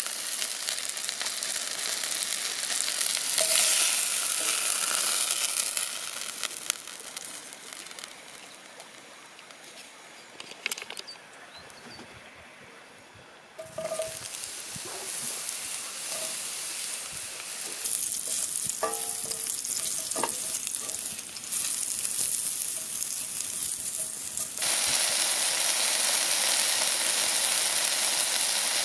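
Food frying in a cast-iron skillet on a camping gas stove: a steady sizzle as chicken breasts are turned with a wooden spatula. The sizzle falls quieter for a while, then starts up again abruptly when sliced mushrooms drop into the hot pan about halfway through, with a few light clinks, and grows louder near the end.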